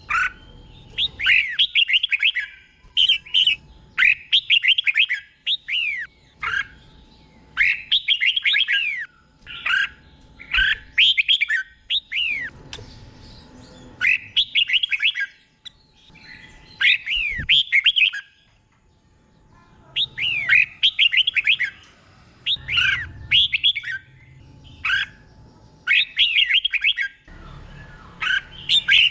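Red-whiskered bulbul singing: short phrases of quick, sweeping whistled notes, repeated every second or two with brief pauses between them.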